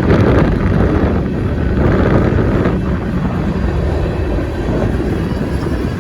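Union Pacific freight train passing, its cars rolling along the rails with a loud, steady noise.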